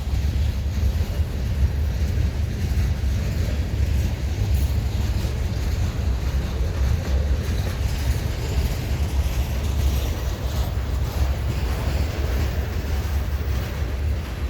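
Norfolk Southern manifest freight train's cars rolling past: a steady, loud low rumble of steel wheels on rail.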